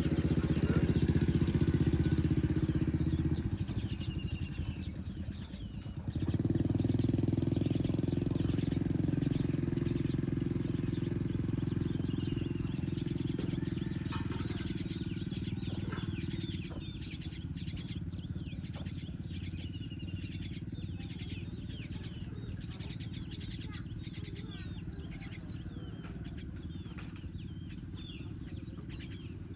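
Small birds chirping repeatedly over a steady low engine rumble. The rumble dips briefly about five seconds in and drops a little after about sixteen seconds.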